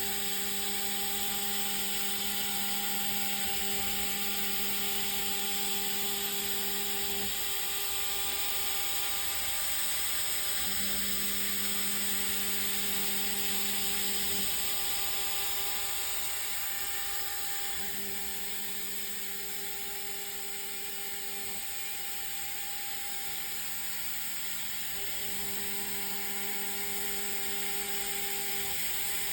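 MX400 desktop CNC mill machining stainless steel: a steady high-pitched spindle whine, with a lower hum that cuts out and comes back three times.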